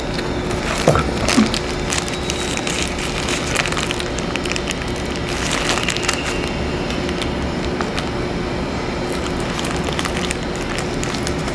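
Close-up eating sounds: a burger being chewed, with crinkling of its paper wrapper as scattered small clicks and crackles, a few sharper ones about a second in. Under them run a steady hiss and a faint steady hum.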